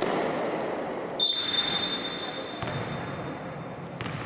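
A referee's whistle gives one long blast about a second in, loudest at the start and fading over about two seconds. Underneath is the reverberant noise of a basketball gym, with voices and the knocks of a bouncing ball.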